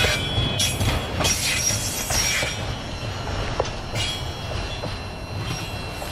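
Loaded autorack freight cars rolling past with a steady low rumble and high, thin wheel squeal, the squeal strongest in the first couple of seconds, the whole sound easing off toward the end.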